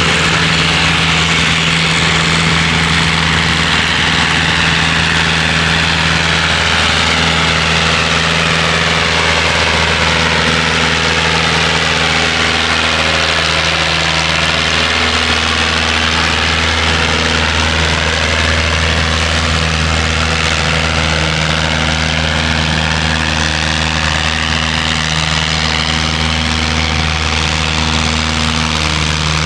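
Pulling tractor's engine running steadily at low revs, with a high whine that slowly sinks toward the middle and climbs back up near the end.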